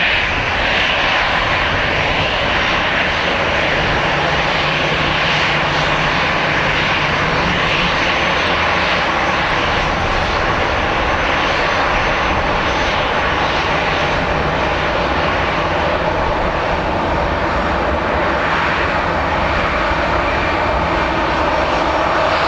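Airbus A320-214's CFM56 jet engines running at idle as the airliner taxis and holds short of the runway: a loud, steady rushing noise with no change in pitch.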